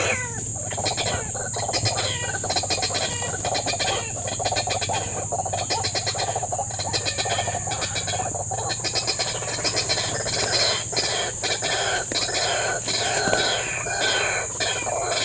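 White-breasted waterhen calls: a continuous run of harsh, rapidly repeated clucking notes, over a steady high-pitched hum of insects.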